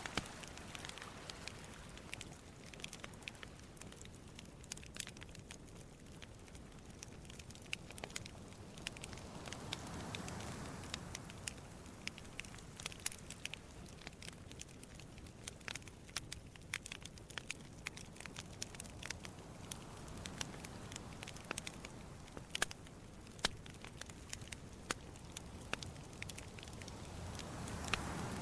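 Wood campfire crackling, with sharp snaps of burning wood throughout. Sea waves wash in behind it as two slow swelling rushes, about ten seconds in and near the end.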